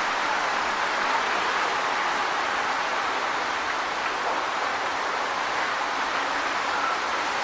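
Wind blowing through tree leaves, a steady, even rustle without gusts.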